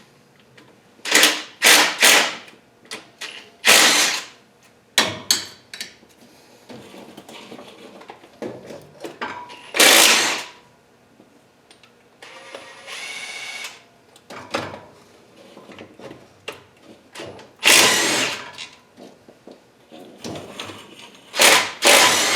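Hand tools working the 10 mm oil pan bolts under a car: a ratchet and socket make loud, short bursts of clicking and clanking again and again. A short steady buzz comes about halfway through.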